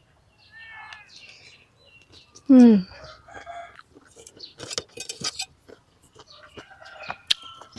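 A domestic animal gives one loud, short call about two and a half seconds in, falling in pitch, among scattered soft clicks and taps.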